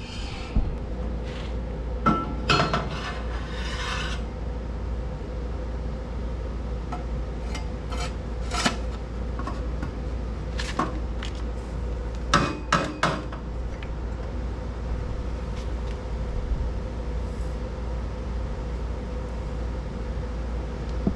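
Steel exhaust tubing being handled and test-fitted: scattered metallic clinks, knocks and scrapes as the pipes are moved and set against the frame, over a steady low hum.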